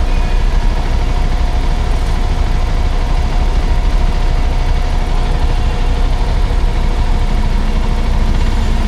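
Motorcycle engine running steadily, with a constant low rumble and a few steady tones.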